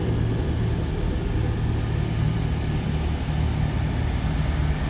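Diesel engines of a Chiltern Railways Class 165 diesel multiple unit running with a steady low drone, and a faint steady high whine above it.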